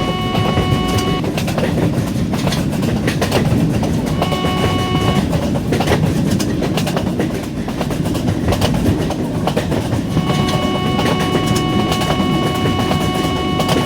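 A long train passing at high speed, its wheels clattering rapidly over the rail joints. The train horn sounds three times: a blast ending about a second in, a short one around four seconds in, and a long one from about ten seconds in.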